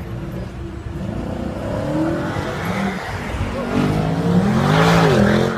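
Car engine revving: its pitch climbs and falls back in the last two seconds, the loudest part, over a lower running rumble.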